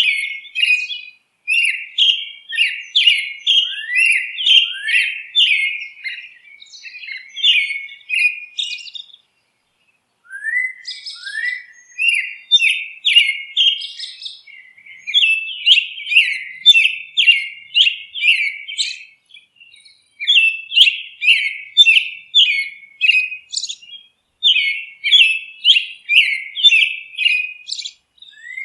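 A songbird singing: long runs of short, sharp chirps, about three a second, with a pause of a second or so about nine seconds in.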